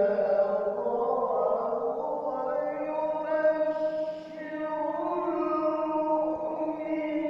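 A qari's voice in melodic Qur'an recitation (tilawah), holding long ornamented notes that slide slowly from pitch to pitch, with a short break about four seconds in.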